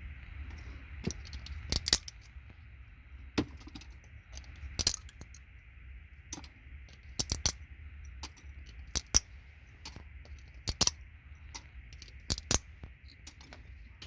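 Sharp plastic clicks and snaps, several in close pairs, coming every second or two as RJ45 jack housings from a patch panel are bent back and slipped off their gold-plated pins. A steady hiss runs underneath.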